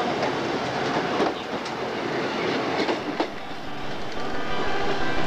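Pakistan Railways railcar train passing close by: a steady rolling rumble from its wheels, with sharp clicks and clacks as they cross the rail joints. It eases off a little as the train pulls away.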